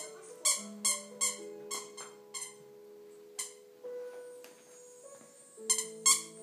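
A squeaky dog toy squeaking about eight times in irregular bursts as a dog chews and plays with it, over soft background music with held notes.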